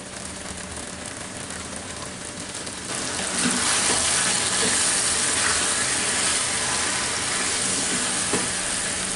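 Chicken pieces and a spiced yogurt mixture sizzling in a hot pan. The sizzle gets louder about three seconds in as the yogurt is worked in, with a silicone spatula scraping and stirring through it.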